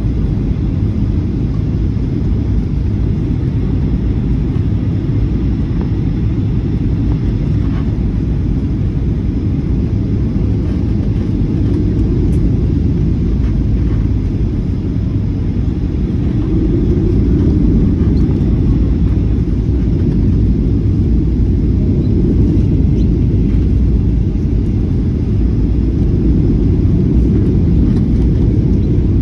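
Steady low rumble of a jet airliner's engines and airflow, heard inside the passenger cabin, growing slightly louder about halfway through.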